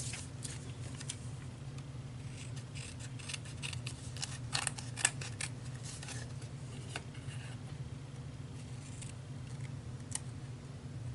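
Scissors snipping paper in short irregular clusters, busiest in the middle, over a steady low background hum.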